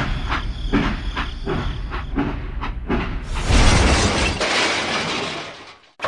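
Train wheels clacking over rail joints in a steady rhythm, about three knocks a second, then a louder rushing noise that fades away near the end.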